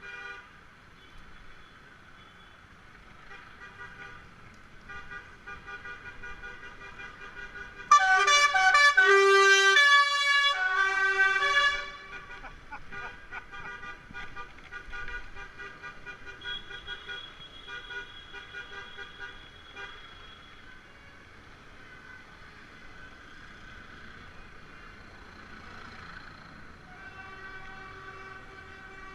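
Vehicle horns honking, several sounding together in a loud blast of held notes about eight seconds in that lasts about four seconds, with fainter horn tones going on around it.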